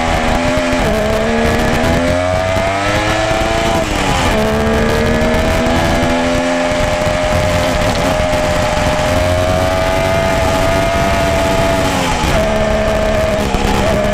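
Motorcycle engine and exhaust running under way. The revs climb from about a second in, fall sharply at about four seconds as in a gear change, hold fairly steady, then fall again just after twelve seconds.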